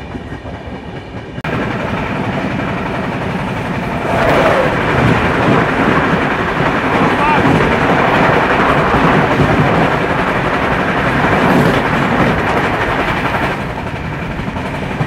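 Passenger train running at speed: a steady rush of wheel and rail noise that grows louder about four seconds in and eases off near the end.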